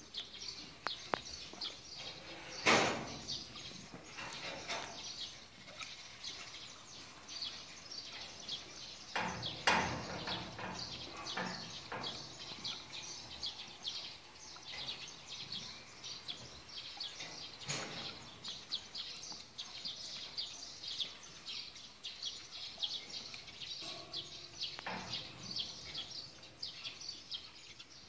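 Birds chirping continuously in quick, high chirps, with a few sharp knocks about 3, 10 and 18 seconds in.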